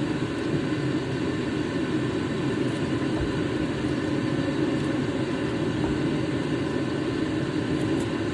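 A steady mechanical hum with several fixed tones, even in level throughout.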